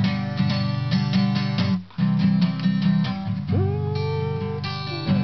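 Acoustic guitar strumming chords in a steady rhythm, with a brief break about two seconds in; a held, sliding melody line comes in over it after about three and a half seconds.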